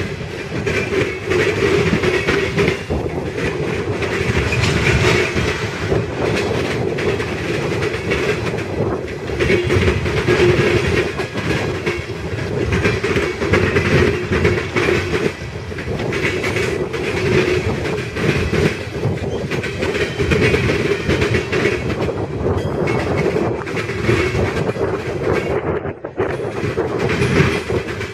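Coal train hopper cars rolling past, their steel wheels clicking over rail joints in a continuous rumbling clatter. A steady hum runs underneath.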